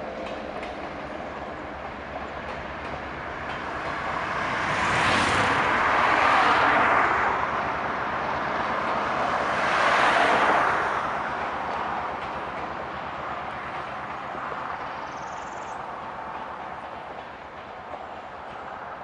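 A train passing close by, its rumble swelling loud twice, about six seconds in and again about ten seconds in, then fading.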